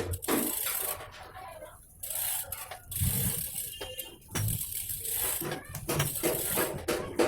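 Irregular metallic clicks, clinks and light knocks from working on a road bike's drivetrain with hand tools.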